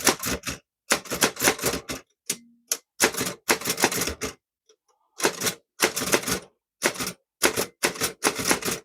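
Typing on an antique Chicago typewriter: rapid runs of sharp key strikes broken by short pauses between words. The machine needs a lot of force on the keys to get a good impression.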